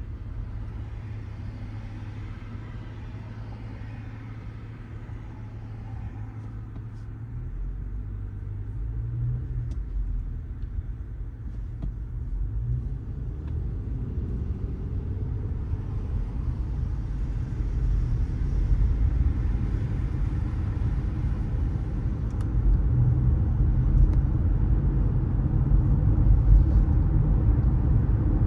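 Car driving through city streets: low engine and tyre rumble, a steady low hum at first that grows louder from about seven seconds in, with the engine pitch rising as the car picks up speed.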